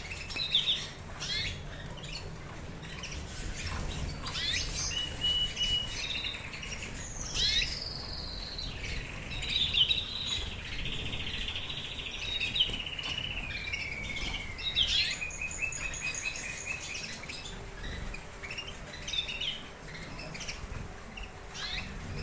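Fife Fancy canaries singing: a run of chirps, whistled notes and rapid trills, with a long fast trill near the middle followed by a falling whistle.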